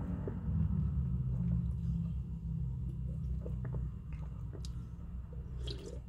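A person chewing a mouthful of chicken burger, with small wet mouth clicks over a low rumble.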